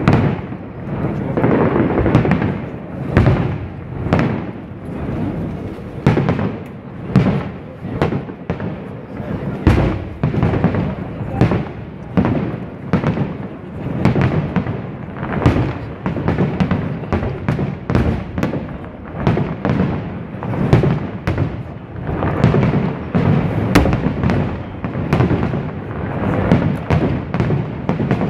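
Fireworks display: shells bursting in quick succession, a steady run of echoing booms and bangs, one to two a second.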